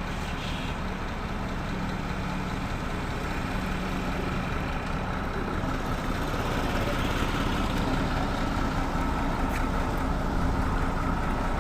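A large road vehicle's engine running steadily with a constant hum, growing a little louder about two-thirds of the way through.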